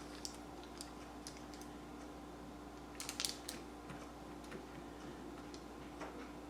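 Scattered light clicks and taps of small craft pieces and a tin being handled on a tabletop, with a cluster of louder clicks about three seconds in, over a faint steady hum.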